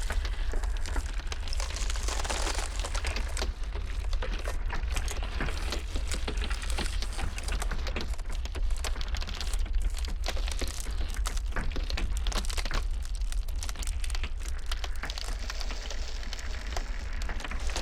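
Iceberg ice cracking: a dense, continuous run of small sharp cracks and crackles over a steady low rumble of blizzard wind.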